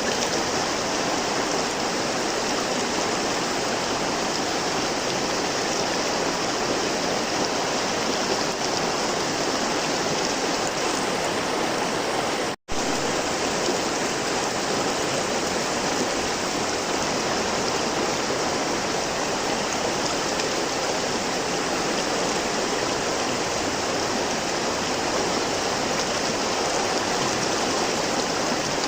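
Flowing river water rushing steadily, an even wash of water noise. It cuts out completely for a split second about halfway through, then resumes unchanged.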